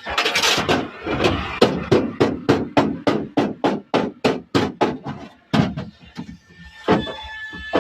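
Rapid, evenly spaced hammer blows on car-body sheet metal, about three to four a second, followed by a couple of louder single strikes near the end.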